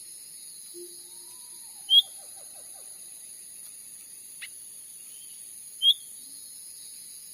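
Cucak ranting calling: two loud, short, sharp notes about four seconds apart, with a fainter note between them. A steady high insect drone runs underneath, and a faint falling trill comes about a second in.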